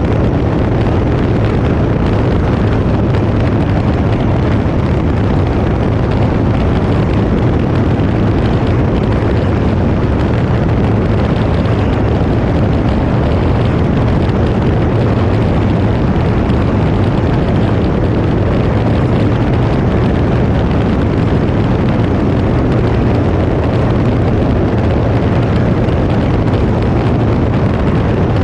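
Cirrus SR20 single-engine piston aircraft in cruise: a loud, steady drone of engine, propeller and rushing air with a deep low rumble, unchanging throughout.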